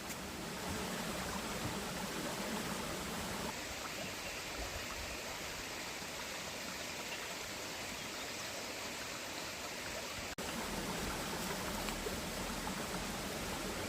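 Steady rush of running stream water, changing slightly in tone about three and a half seconds and ten seconds in.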